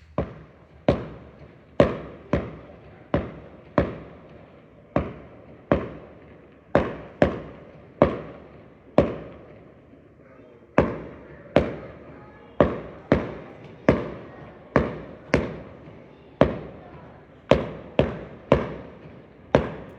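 Aerial fireworks bursting: a string of sharp bangs, roughly one a second, each trailing off in an echo, with a short pause about halfway through.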